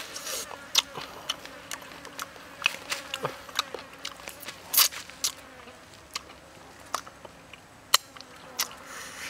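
Close-up eating sounds of a fried chicken wing being bitten and chewed: irregular crisp crunches, clicks and mouth smacks, the loudest about five and eight seconds in.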